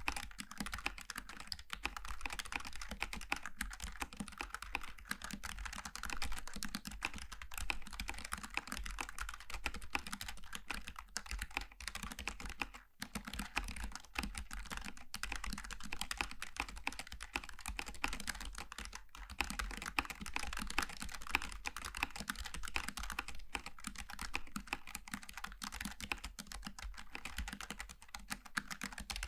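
Continuous fast typing on a Logitech G915 TKL low-profile mechanical keyboard with GL Tactile switches: a dense, even stream of key clicks, with a brief pause about 13 seconds in.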